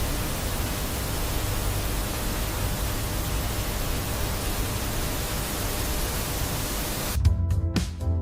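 A steady, loud hissing rush of noise with a low rumble beneath it, which cuts off abruptly about seven seconds in as music with a beat begins.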